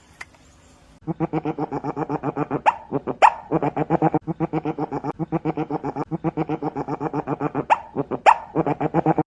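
An animal giving a long, unbroken run of rapid, evenly repeated harsh calls, about nine a second, with two pairs of sharp clicks among them.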